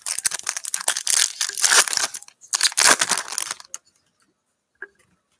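A trading-card pack wrapper crinkling and tearing as it is ripped open, a dense crackle for about three and a half seconds that then stops.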